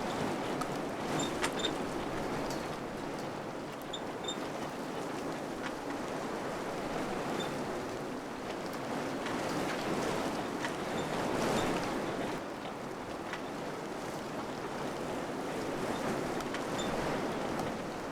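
Wind blowing through a village: a steady rushing that swells and eases in gusts, strongest around the middle, with a few faint light ticks scattered through it.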